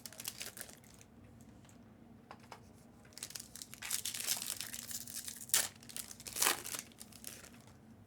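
Plastic packaging being crinkled and torn by hand, as card wrappers are handled and opened. It comes in irregular crackling bursts, with two sharper rips in the second half.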